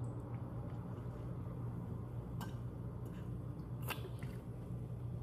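A person chewing food, with soft squishy mouth sounds and two sharp clicks about two and a half and four seconds in, over a steady low hum.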